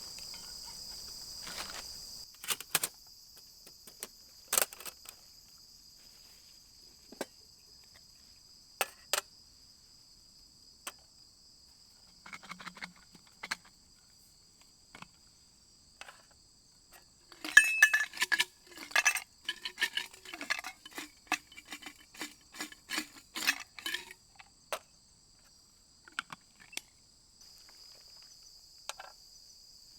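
Metal camp gear being handled: scattered clicks and taps, then a dense run of sharp metallic clinks about halfway through. Crickets chirr with steady high notes at the start and again near the end.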